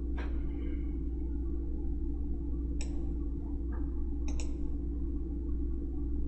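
Steady low electrical hum with a few sharp computer-mouse clicks, two of them close together a little past the middle.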